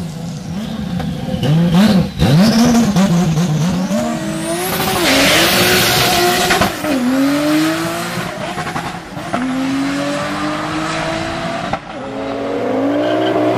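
A tuned turbocharged car engine revving up and falling back repeatedly, as under hard acceleration through gear changes. A high whistle rises early on, and a long hiss comes about five seconds in.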